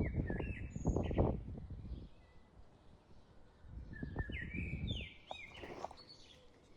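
A bird calling with short whistled notes that slide up and down, in two bouts, over a low rumbling noise in the first couple of seconds and again around four seconds in.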